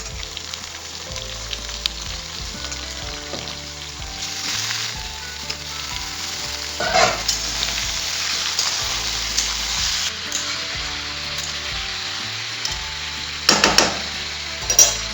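Chicken pieces sizzling in hot mustard oil with frying onions in a kadhai, stirred as they cook. The sizzle flares up loudly a few times, most strongly about seven seconds in and twice near the end.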